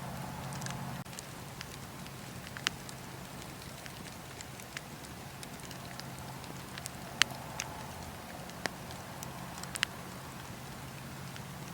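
Wood fire burning in a fireplace: a steady low rumble and hiss with irregular sharp crackles and pops, the loudest near the middle and just before the end.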